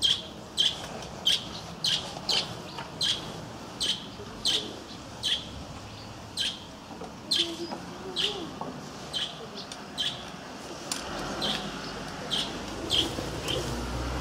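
A small bird chirping over and over, with short sharp chirps about once or twice a second.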